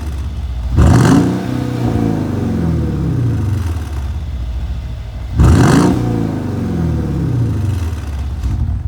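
Mercedes CLS 550 twin-turbo V8 with muffler and resonator deleted and an X-pipe, revved sharply twice about four and a half seconds apart, the engine note falling away slowly after each rev.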